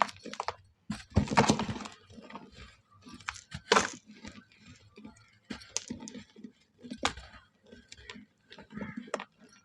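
Dry moulded shapes of mud, charcoal and red sand crumbling and breaking: irregular crackles and crunches, with a longer crunch about a second in and a sharp crack a little before the four-second mark.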